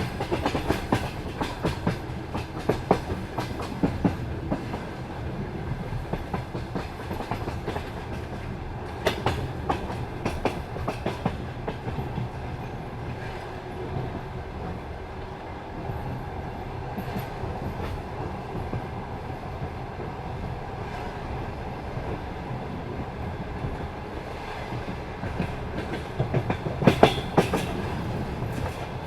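Passenger carriage wheels clacking over rail joints above a steady rolling rumble as the train runs at speed. Clusters of clacks come in the first few seconds, again about ten seconds in, and loudest just before the end.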